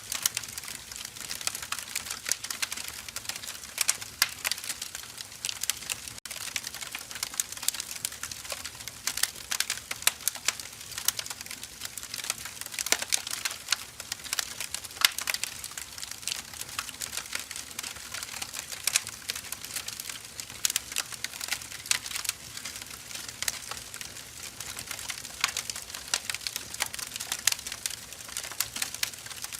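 Firewood logs burning, crackling with many small irregular pops over a steady soft hiss.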